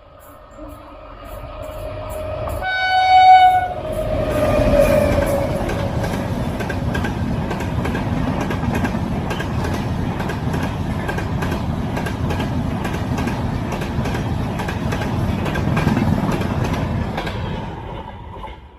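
A train sounds its horn once, briefly, about three seconds in, as its rumble builds. Its wheels then rumble and clack over the rail joints steadily, fading away near the end.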